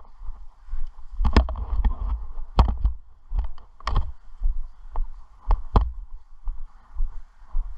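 Kayak paddle strokes: sharp splashes and knocks of the paddle blades in the water, several in quick pairs, over a steady rush of river water.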